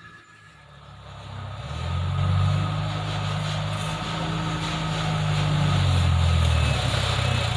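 Dump truck's diesel engine running, getting louder about one and a half seconds in and then holding steady.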